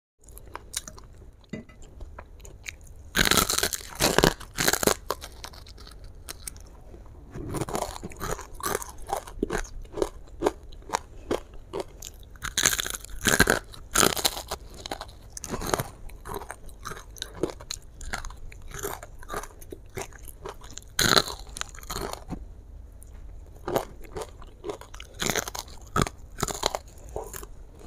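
Crispy battered fried chicken being bitten and chewed close to the microphone: irregular crunching of the coating, with several louder bursts of crunches as fresh bites are taken.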